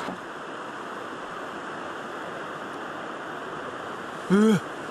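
Steady rushing of river rapids. About four seconds in, a short loud vocal sound from a man rises and falls in pitch.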